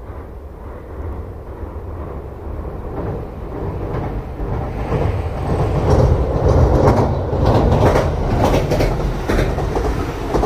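Ainokaze Toyama Railway 521 series 1000-number electric train crossing a steel railway bridge and passing close. A deep rumble grows steadily louder and peaks as the train goes by, with rapid wheel clacks over the rail joints near the end.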